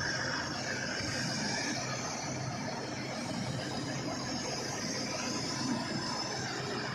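Vehicle engines running steadily, an even drone with no sudden changes.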